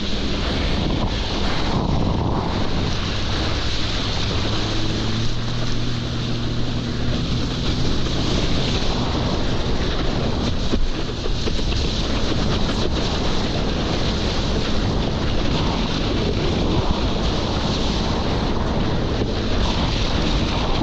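Wind buffeting the action-camera microphone and water rushing during wake surfing behind a jet ski, with the jet ski's engine humming steadily underneath.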